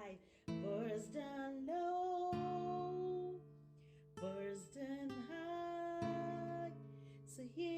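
Children's song about bees: a woman singing held, sliding notes over a plucked-string, guitar-like accompaniment.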